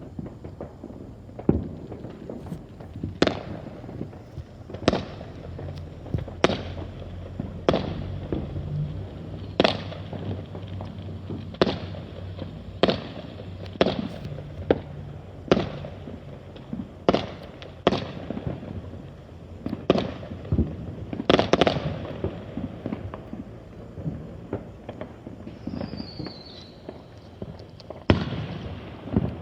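Consumer fireworks going off in the distance: a string of sharp bangs every second or two, with one brief falling whistle near the end.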